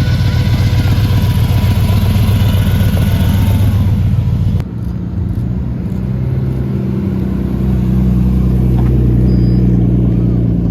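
Car engine running loudly with a fast, even pulsing rumble. About four and a half seconds in the sound changes abruptly to a smoother engine tone that slowly swells.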